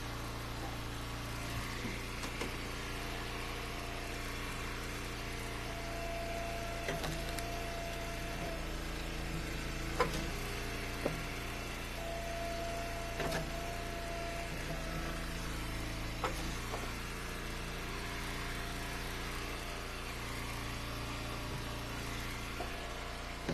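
Engine of a hydraulic log splitter running steadily, with a higher whine that comes and goes several times. A few sharp knocks of firewood sound over it, the loudest about ten seconds in.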